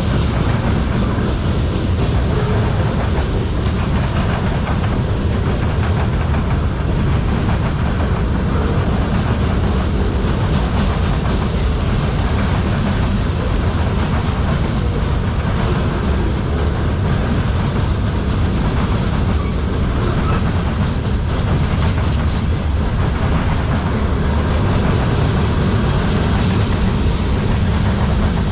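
Manifest freight train rolling past, its steel wheels running over the rails with a steady, loud noise.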